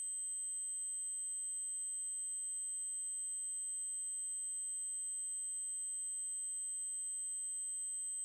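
A synthesised 8192 Hz triangle-wave tone, one continuous high-pitched tone held unchanging.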